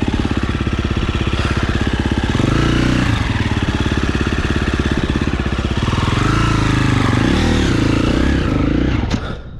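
KTM enduro dirt bike engine revving hard under load on a steep climb, its pitch rising and falling repeatedly with the throttle, then falling away near the end.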